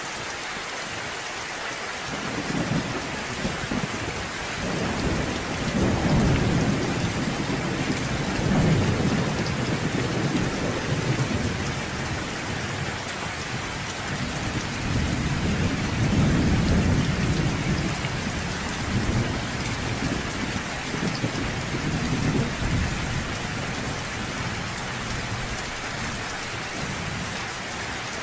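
Steady rain with rolling thunder: two long low rumbles, one swelling from about two seconds in and another from about the middle, each dying away over several seconds.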